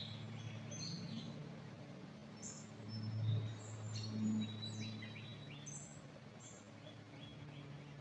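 Songbirds chirping and calling in short, scattered notes, some sliding in pitch, over a steady low hum that swells briefly a few seconds in.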